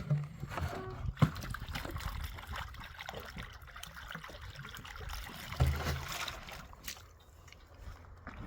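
Water trickling and sloshing, with a sharp knock about a second in and a low thump a little past the middle.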